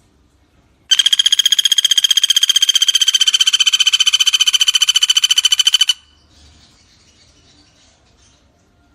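Pelatuk bawang woodpecker giving one long, rapid rattling trill, steady in pitch, starting about a second in and lasting about five seconds.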